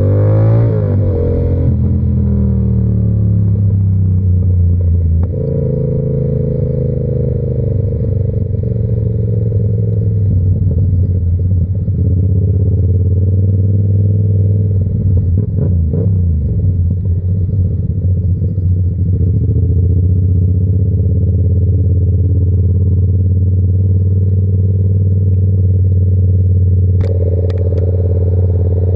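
Yamaha R7's parallel-twin engine with an SC-Project exhaust running under way. It mostly holds a steady engine note, with pitch dips and rises as revs change near the start and around the middle, and it picks up again near the end with a few sharp clicks.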